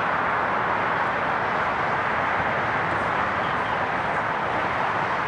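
Steady vehicle noise from traffic and emergency vehicles at a freeway crash scene: an even, unchanging rush with no distinct events.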